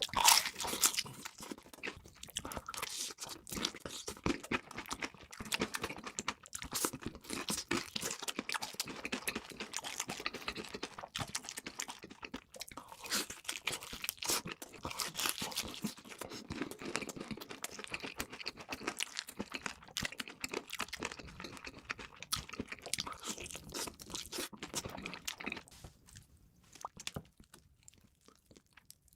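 Close-miked eating: a steady run of crunching bites and wet chewing of crunchy fast food, quieting down for the last few seconds.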